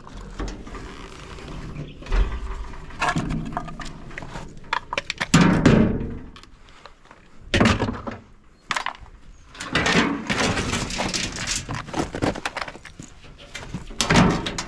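Irregular knocks, thuds and clatter of hand tools working on the metal and plastic parts of a washing machine as a drain pump is taken out.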